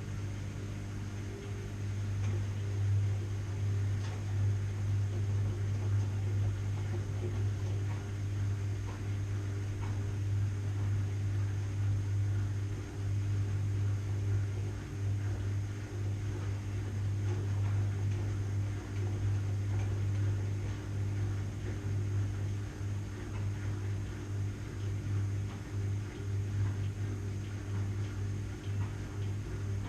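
Washing machine running with a steady low hum and a faint wash of noise over it, its level wavering slightly.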